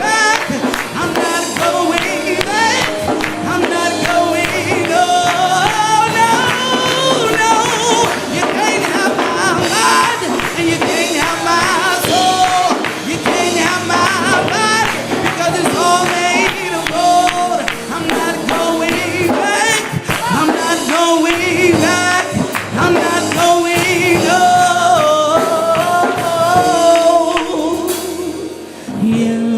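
Upbeat gospel song: a male lead voice singing in long, bending runs over a full band with percussion.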